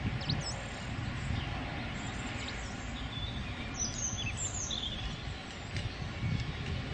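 Small birds chirping a few short calls, mostly around the middle, over a steady low outdoor rumble.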